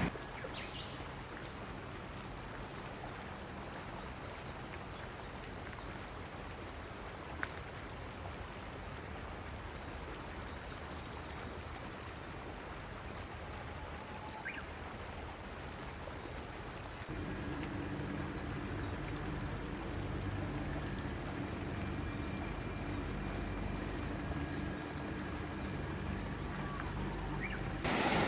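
Steady rushing of a mountain stream, with one faint click. About two-thirds of the way through, the rushing grows louder and a low steady hum joins it.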